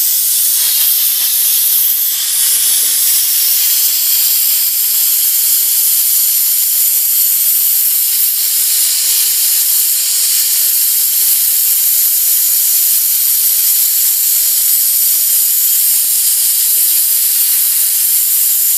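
Steam bed bug killer machine jetting steam from its nozzle: a steady, loud hiss with no break.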